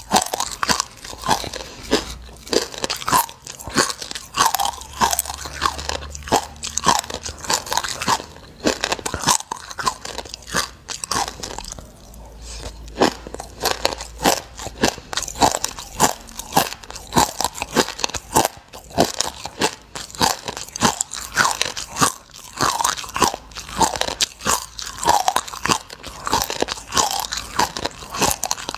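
Close-miked chewing of a mouthful of black sesame seeds: a dense, rapid crunching and crackling as the small dry seeds break between the teeth, with a short lull about twelve seconds in.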